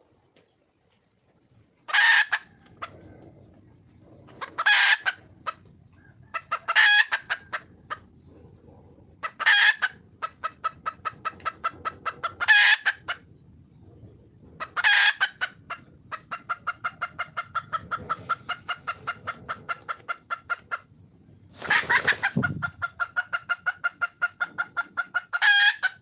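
Junglefowl hen cackling: runs of rapid short clucks, about four or five a second, broken by loud, sharp squawks every two to three seconds, eight of them in all. This is her call to attract a male.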